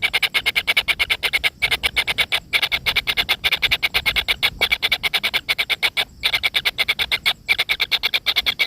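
Kingfisher chicks calling: a fast, steady run of harsh clicking notes, about ten a second, broken by a few short pauses.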